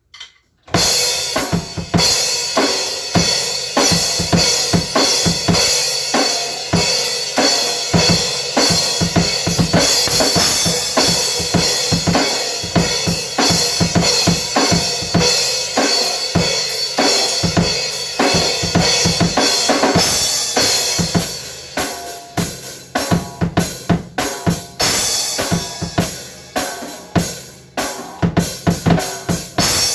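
Acoustic drum kit being played, starting about a second in: rapid kick, snare and tom hits under a constant wash of cymbals, turning into sparser, more separated hits about two-thirds of the way through.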